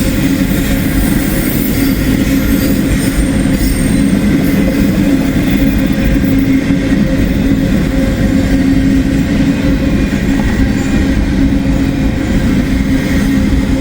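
Norfolk Southern freight train rolling past at slow speed, a steady loud rumble of wheels on rail with a faint steady hum over it.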